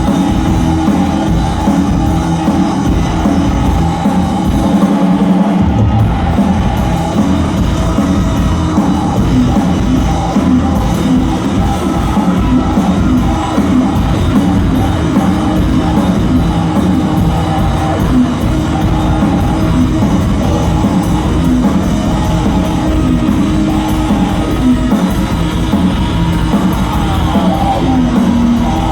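Loud live rock music from a band playing on stage, with singing.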